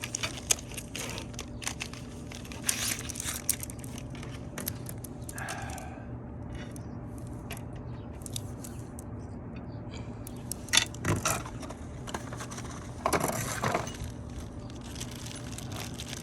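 Parts of a dryer vent cleaning kit clicking, rattling and clinking as they are handled and sorted, in scattered bursts with a few louder clatters in the second half. A low steady hum runs underneath.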